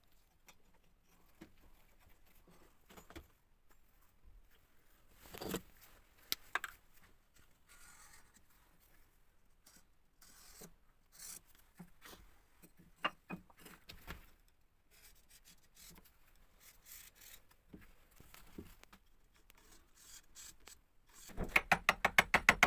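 Faint, scattered scraping and knocking of hand work on metal. Near the end a loud, fast, even rattle of many pulses a second starts up.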